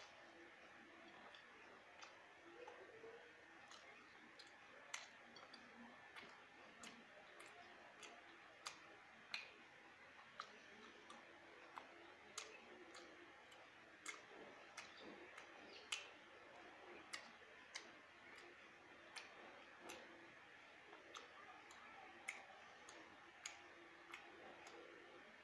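Faint eating sounds from a person eating khichuri by hand: small irregular mouth clicks and smacks while chewing, a couple a second, over near silence.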